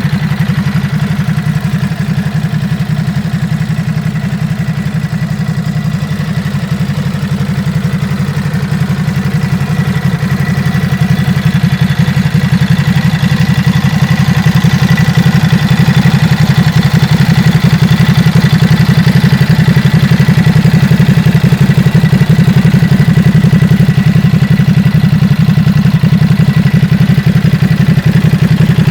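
Ducati SuperSport 950 S's 937 cc Testastretta L-twin engine idling steadily, a rapid even pulsing. It gets a little louder about eleven seconds in.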